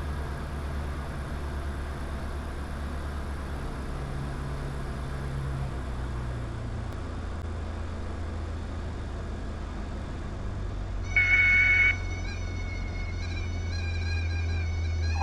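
Diamond DA20 light aircraft's engine and propeller droning in the cockpit, the drone dropping in pitch twice as power comes back for landing. About eleven seconds in, the stall warning horn sounds as the aircraft is flared: loud and steady for about a second, then softer and wavering until touchdown.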